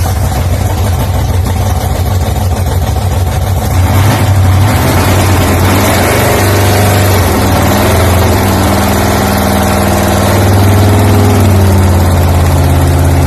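Holden 304 V8 engine, freshly fitted and carburetted, running loudly on one of its first start-ups, its speed rising and falling a little partway through.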